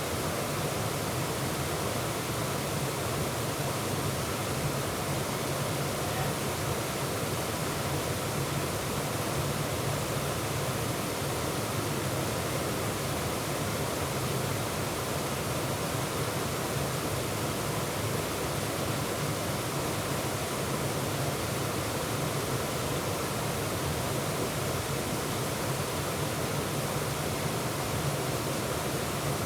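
Waterfall rushing, a steady, unbroken roar of falling white water.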